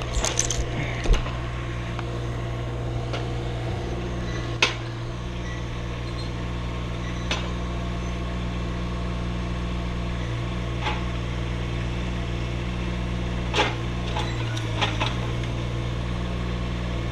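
A motor idling steadily, with a few sharp clicks and knocks now and then.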